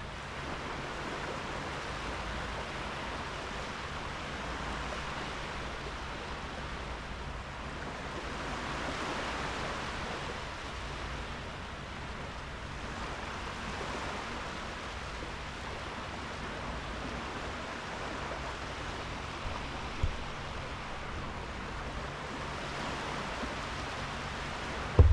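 Small sea waves washing onto a sandy beach: a steady hiss of surf that swells and eases every few seconds, with a low rumble beneath. One brief low thump comes about two-thirds of the way through.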